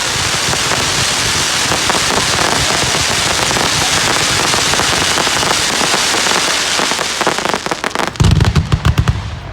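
Fireworks: a dense, continuous crackling like heavy rain, then a rapid string of loud bangs near the end.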